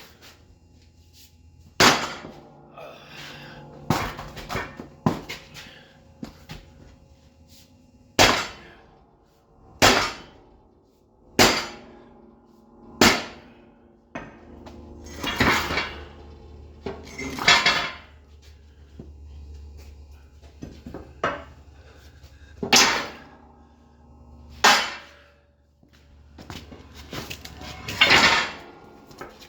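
Big hammer striking a bent steel snowplow frame to straighten it: about a dozen heavy blows at irregular intervals of one to four seconds, each ringing briefly.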